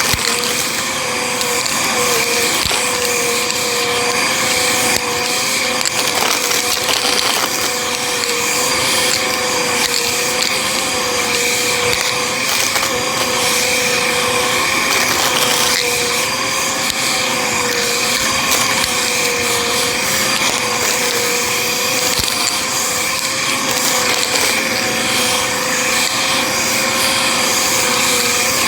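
Bissell vacuum cleaner running continuously: a steady motor whine whose pitch wobbles slightly as it works, under a rushing airflow. Scattered small clicks and rattles come from debris being sucked up.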